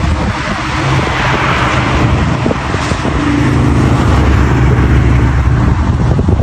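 A vehicle driving on a highway: steady engine hum under road and tyre noise.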